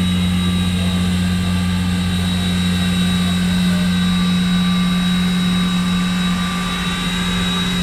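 A parked railway locomotive running at a steady idle, really loud: a constant low hum with a thin high whine above it.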